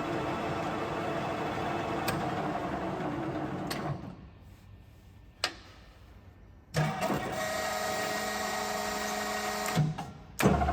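LeBlond Regal 15 lathe running steadily, then dropping to near quiet for about three seconds with a single click, then starting up again with a different pitch; near the end it stops briefly and starts once more.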